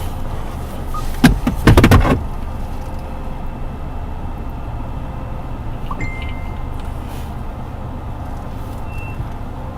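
A steady low rumble of wind and a vehicle, broken by a loud burst of knocks and buffeting between about one and two seconds in.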